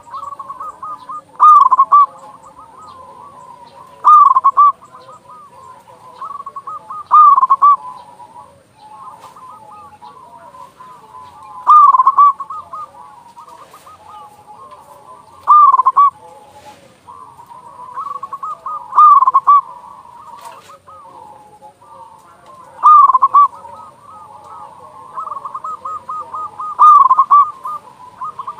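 Zebra dove (perkutut) cooing: a loud coo phrase comes about every 3 to 4 seconds, eight times in all, with softer cooing filling the gaps between.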